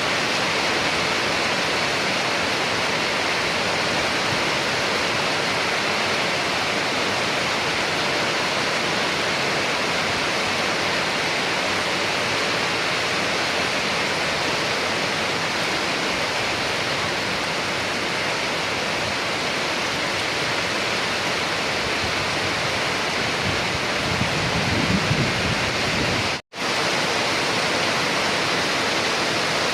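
Steady rain falling, an even rushing hiss. Near the end a short low rumble swells up, and then the sound cuts out for a split second before the rain resumes.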